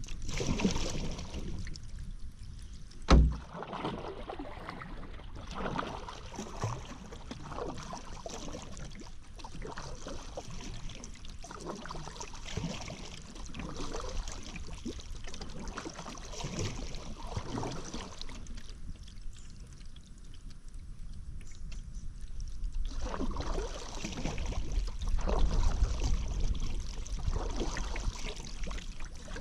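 Paddle strokes dipping and splashing in river water, repeating about once a second, with a sharp knock about three seconds in. The strokes pause briefly past the middle, then a low rumble swells near the end.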